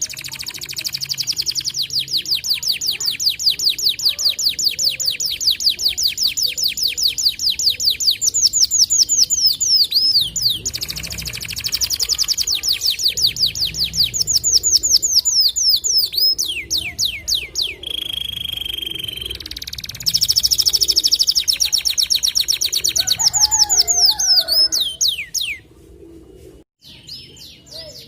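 White domestic canary singing long, fast trills of rapidly repeated high notes, broken by a few short pauses, with a brief held whistle about two-thirds of the way through. The song falls away near the end.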